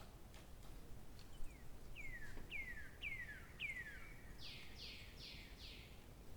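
A songbird singing: four clear whistled notes, each sliding down in pitch, about half a second apart, followed at once by four quicker, harsher buzzy notes.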